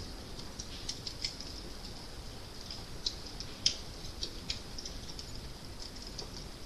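Fire crackling: irregular small pops and snaps over a low steady rumble, with one louder pop about halfway through.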